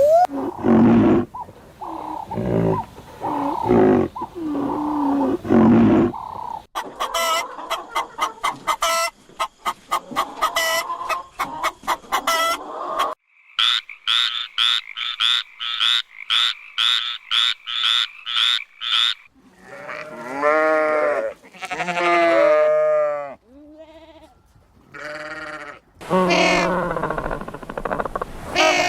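A succession of different animal calls: pitched bleat-like calls for the first few seconds, then quick trains of rapid clicking pulses, then repeated drawn-out pitched calls again near the end.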